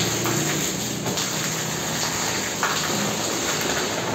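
Rain pouring down steadily, a dense even hiss.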